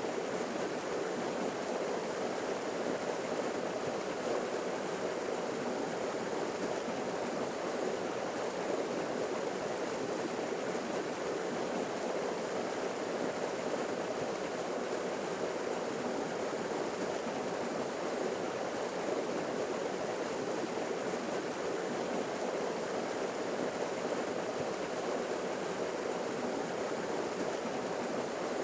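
Forest waterfall: water falling and rushing in a steady, unbroken roar.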